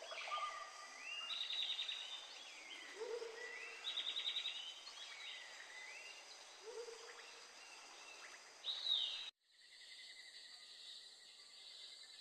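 Rainforest birds calling with whistled notes that glide up and down, over a faint background hiss. About nine seconds in the sound cuts off abruptly to a steady, even insect drone.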